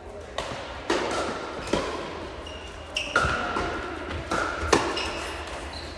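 Tennis rally: a string of sharp ball strikes off racquets and bounces on the court, spaced roughly half a second to a second apart.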